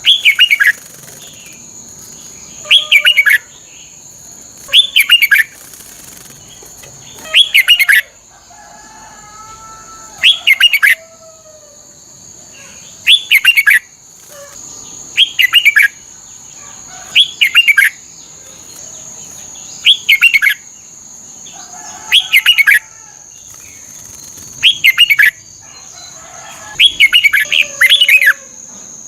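Red-whiskered bulbul singing: short, loud, warbling phrases under a second long, repeated about every two seconds.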